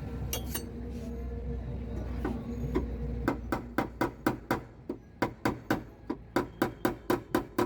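Light hammer taps on the sheet-metal door panel of a car during dry dent repair: a few scattered taps, then from about three seconds in a steady run of about four sharp taps a second with a slight metallic ring. A low steady hum underlies the first three seconds.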